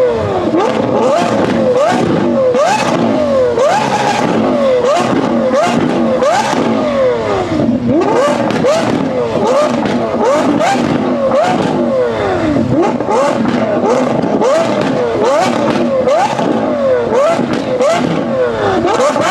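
A tuned supercar's engine revved hard on the spot through a loud exhaust: throttle blip after throttle blip, each rev shooting up and then falling away, with sharp cracks from the exhaust between them.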